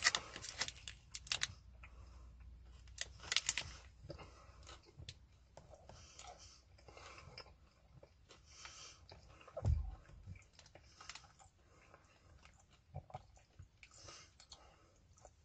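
A person chewing a bite of a layered protein bar with the mouth closed. There are sharp crackles near the start and again about three seconds in, and one dull thump a little after the middle.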